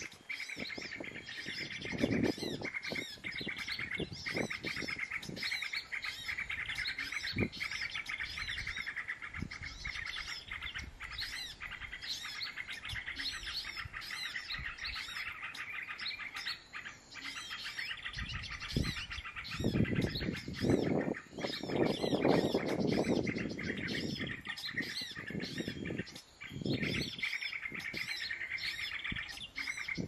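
Small birds chirping rapidly and continuously in a dense, repeating chorus, with a few bursts of low noise, the loudest about two-thirds of the way in.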